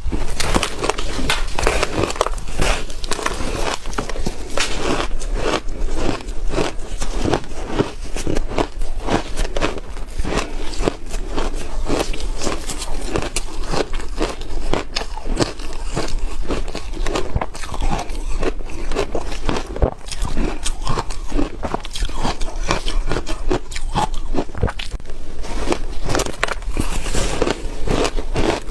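Ice being bitten and chewed, a dense run of sharp crunches and cracks that never lets up.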